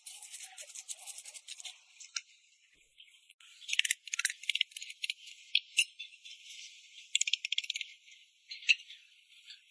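Light, rapid clicking and rattling of small hard objects, coming in irregular bursts.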